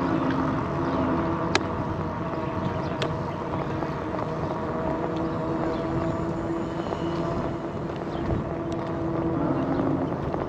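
An electric bike in motion: a steady motor hum with a few held tones that shift slightly, over a rushing bed of wind and tyre noise, with a few sharp clicks from the bike.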